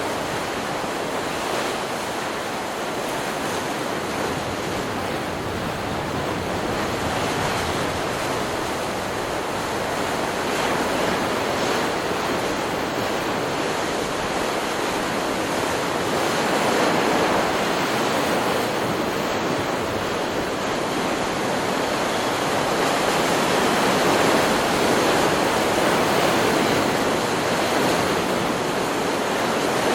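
Ocean surf on a beach: waves breaking and washing in as a continuous rushing hiss that swells louder a few times, every several seconds, and eases again.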